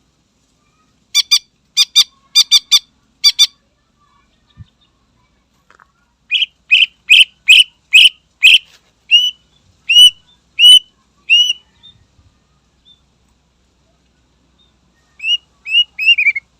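Cucak ijo (greater green leafbird) singing loudly in separate phrases: a quick run of about seven short, sharp notes, then about a dozen clear whistled notes with hooked ends, and three or four more whistles near the end.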